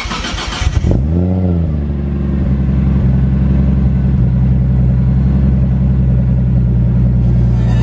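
Nissan 180SX's RB25DET turbo straight-six starting: a short burst of cranking, then it catches about a second in with a quick rev that rises and falls, and settles into a steady, loud idle.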